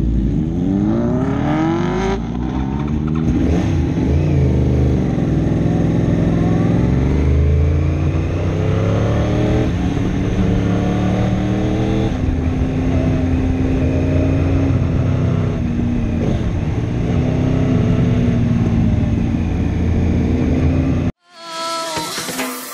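Superbike engine revving and accelerating, its pitch climbing in several steps and then holding steady. It cuts off suddenly near the end, and electronic music starts.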